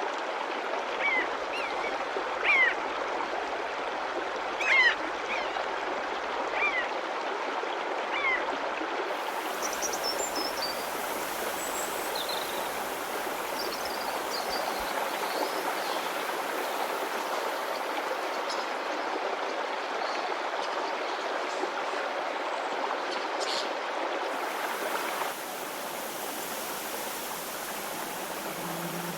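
Stream of water flowing steadily, with birds chirping over it: a few loud short chirps in the first several seconds, then higher, fainter calls. About three-quarters of the way through, the water drops a little in level.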